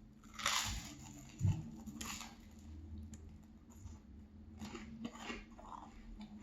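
Close-up crunching and chewing of toasted maple cinnamon bread, about four crisp crunches with a low thump between the first two.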